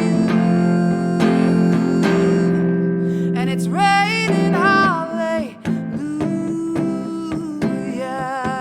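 A woman singing a song with guitar accompaniment, her voice holding long, wavering notes over steady guitar chords.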